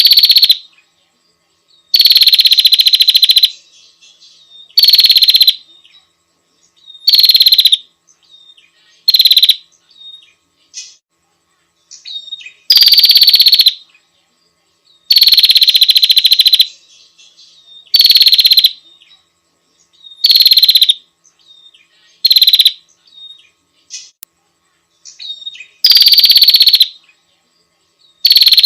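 Female prinia (prenjak) calling: a loud series of rapid, buzzy trills, each half a second to a second and a half long, repeated every two to three seconds, with faint short chips in between. It is the female's call to a male.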